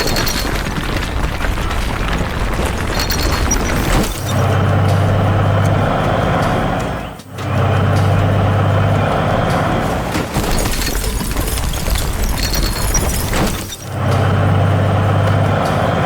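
Cartoon truck engine sound effects: a dense mechanical noise with a low steady hum that swells in three stretches of about a second and a half each.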